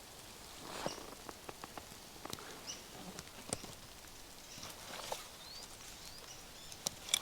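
Scattered light taps, clicks and crunches at irregular intervals over a faint outdoor hiss.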